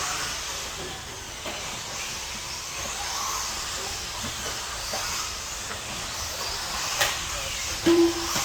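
Electric mini truggy RC trucks racing on an indoor track: a steady hissing whir of small motors and tyres, with a sharp knock about seven seconds in and a short low tone near the end.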